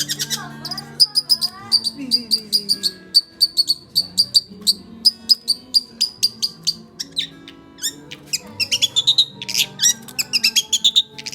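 Oriental magpie-robin (kacer) singing a fast run of sharp, repeated high chirps, about three a second, breaking into a denser, more varied phrase near the end. Soft background music with low held notes plays underneath.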